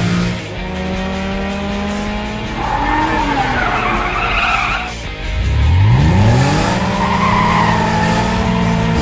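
Cartoon race-car sound effects over background music: a tyre skid screeching for a couple of seconds, then an engine revving up sharply in rising pitch a little past halfway, settling into a steady engine hum.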